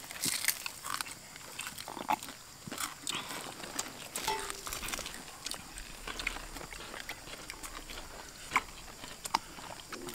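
Several people eating rice and fish with their hands: close chewing and mouth smacking, with scattered small clicks.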